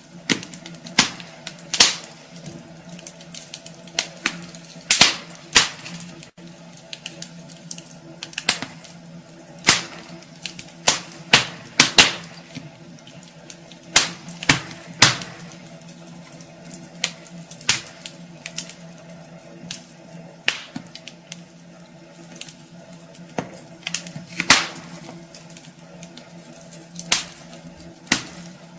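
Wood fire crackling in a fireplace: irregular sharp pops and snaps from the burning logs, some much louder than others, over a faint steady low hum.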